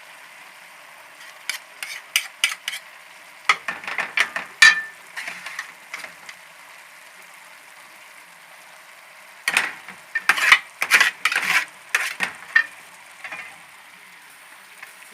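Hot sauce sizzling steadily in a cooking pan while a utensil scrapes and clinks against the pan in spells of stirring, about a second and a half in, around four seconds, and again from about nine and a half to twelve and a half seconds.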